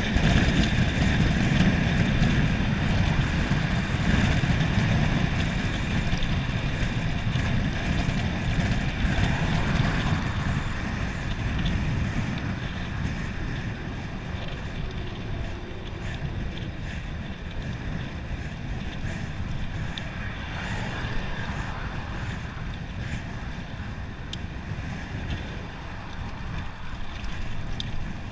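Wind rushing over the microphone, with tyre noise from a Cannondale Topstone 4 gravel bike on a fast downhill run. The rush is loudest at first and eases a little from about halfway as the bike slows.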